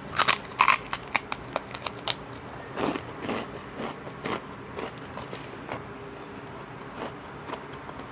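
Close-miked crunching as crispy chicharon (fried pork rinds) is bitten and chewed: a quick run of sharp, loud crunches in the first two seconds, then softer, slower chewing.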